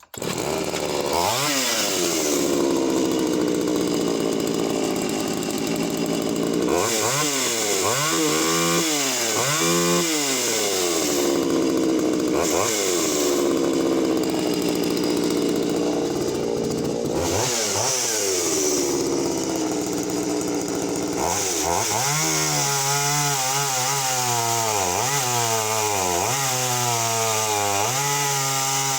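Poulan 3400 chainsaw at full throttle cutting through a log, its engine pitch sagging under load and climbing back again and again, with quicker up-and-down swings in revs over the last several seconds. The engine pulls clean with no hesitation.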